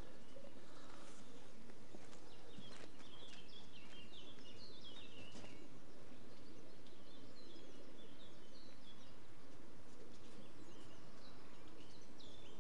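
Songbirds singing, short stepped chirping phrases repeated every second or so, over a steady low background noise.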